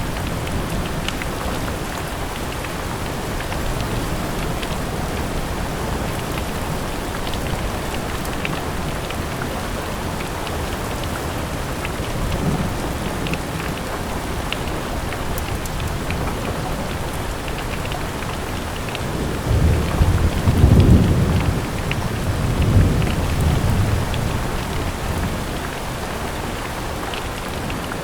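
Steady rain falling on a window. A short low rumble of thunder comes about twelve seconds in, then a louder, longer roll of thunder about twenty seconds in that fades over several seconds.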